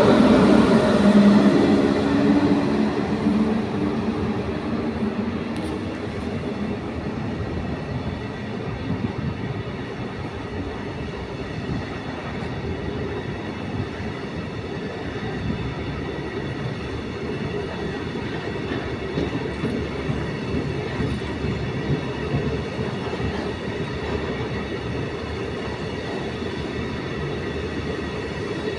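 A freight train of tank wagons rolling past on the rails: the locomotive's steady tones are loudest at the start and fade within the first few seconds, leaving a steady rumble of wagon wheels on track with faint wheel squeaks.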